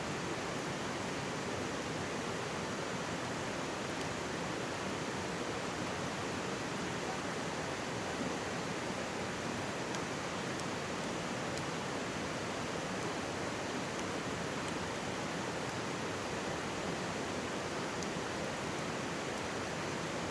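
Mountain stream rushing steadily close by, with a few faint crackles from a wood campfire.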